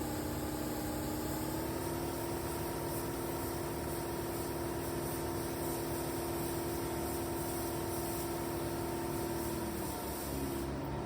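Steady hum of a motor running, with a hiss over it. The pitch rises slightly about a second and a half in and dips near the end.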